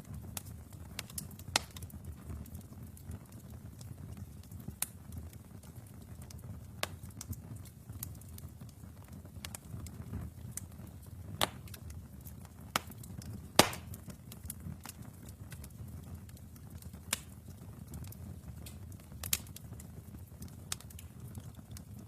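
Wood fire burning in a fireplace: a steady low rumble of flames with scattered sharp crackles and pops from the burning logs. The loudest pop comes a little past halfway.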